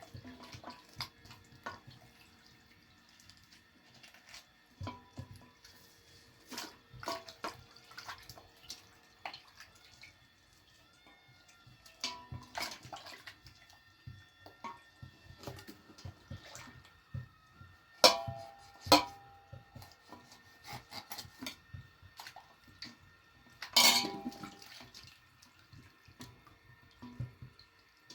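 Irregular knocks and clinks of hard objects being handled, some ringing briefly. The loudest come about two-thirds of the way in and again a few seconds later.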